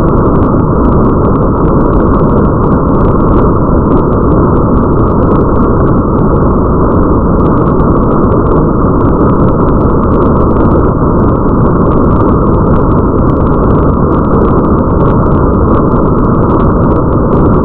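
Steady, muffled rain-ambience noise with a deep rumble, dull and cut off in the highs, with faint scattered drop ticks.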